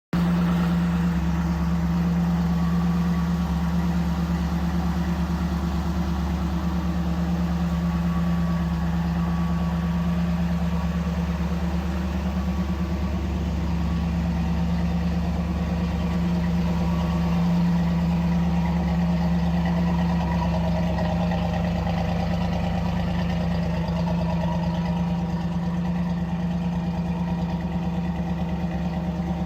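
1964 Ford Galaxie's 390 cubic-inch V8 idling steadily.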